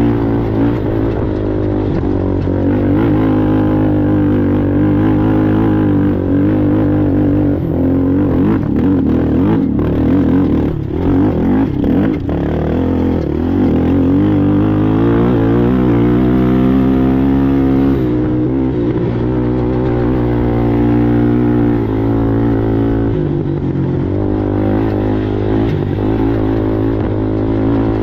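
Racing ATV engine running hard, its revs rising and falling as it is ridden, with a few brief dips and knocks about halfway through.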